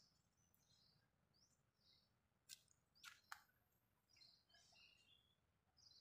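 Faint birdsong: short, high chirps from small forest birds, scattered through. Three sharp clicks come close together about halfway through.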